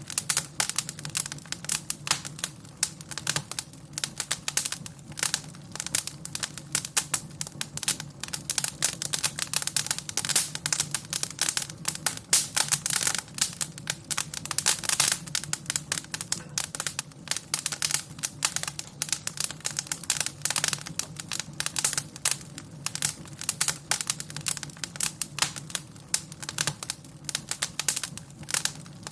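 Wood fire crackling, with dense irregular snaps and pops over a steady low hum.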